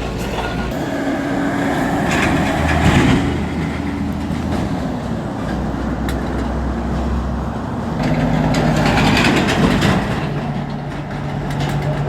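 Heavy truck engine running in road traffic, growing louder twice as it works or passes.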